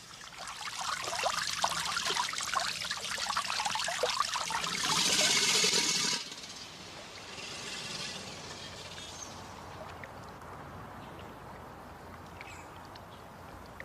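Water splashing in many quick small droplets, thrown up by a male American alligator's subsonic vibrations just before it bellows. The splashing is loudest about five seconds in and stops abruptly near six seconds, leaving a quieter steady hiss of water.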